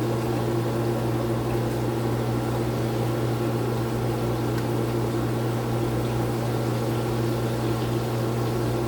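Chicken pieces deep-frying in hot oil, a steady sizzle, over a constant low electrical or fan hum.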